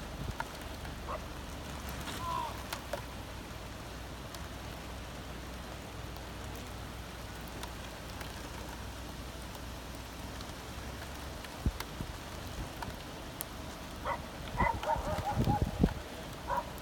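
Steady rain falling during a hurricane, a constant hiss. Near the end come a few low thumps and brief muffled sounds.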